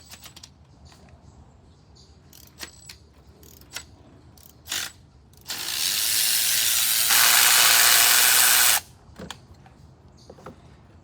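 Ratchet and socket extensions clicking and knocking while spark plugs are worked out of the engine. About halfway through, a loud, steady hissing rush lasts roughly three seconds, grows fuller partway, then cuts off suddenly.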